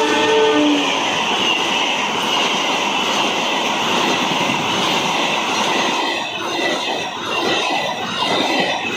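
A train running through the station at high speed in heavy rain: its horn ends in the first second, then a loud, steady rush of the train passing, turning to a clattering of wheels over the rails in the last few seconds.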